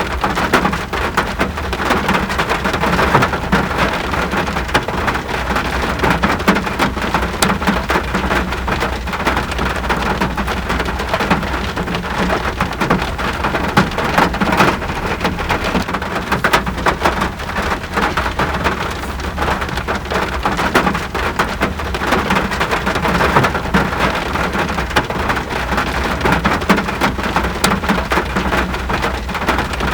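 Steady rain falling, with a dense sprinkle of individual drop hits over an even rushing hiss.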